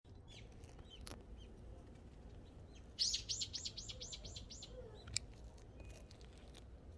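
Small songbirds chirping, with one bird giving a fast run of about eight high, repeated notes about three seconds in.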